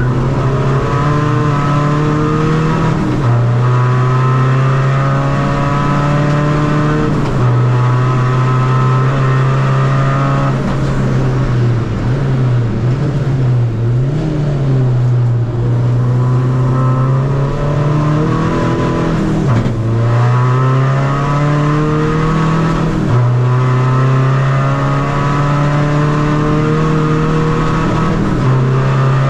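Tuned 2.0 common-rail diesel engine of a Seat Ibiza FR pulling hard through the gears, its pitch climbing and then stepping down at each upshift every three to four seconds. In the middle the revs fall away and waver as the car slows, then it pulls up through the gears again.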